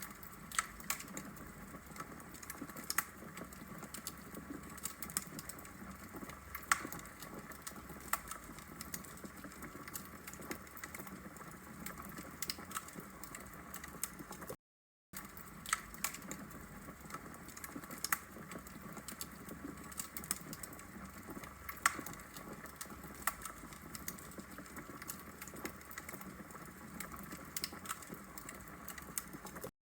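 Wood fire crackling in a fireplace: irregular sharp pops and snaps over a steady low hiss of burning logs. The sound drops out briefly about halfway through.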